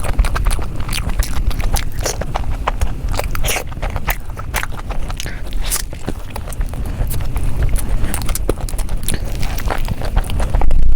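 Close-miked mukbang eating: biting and chewing chicken and cheese balls, with many irregular sharp crunches, clicks and smacks of the mouth.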